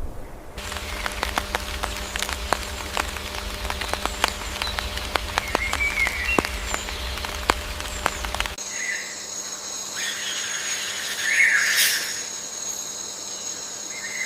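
Outdoor nature ambience. For most of the first part, irregular crackling clicks over a low rumble, with a few faint chirps. After an abrupt change, a steady high insect trill with short bird chirps.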